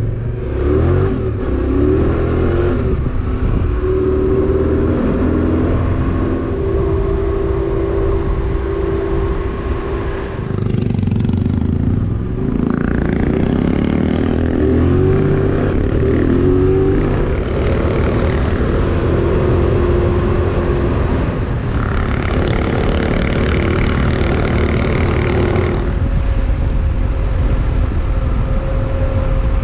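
Motorcycle engine running under way on a dirt road. Its pitch climbs as it accelerates near the start and again about halfway through, then settles to a steady run.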